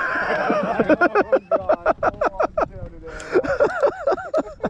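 People laughing in two runs of quick, rhythmic bursts with a short break between.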